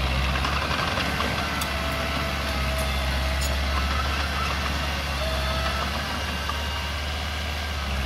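Mini bulldozer's diesel engine running at a steady speed, with a few faint, brief squeals.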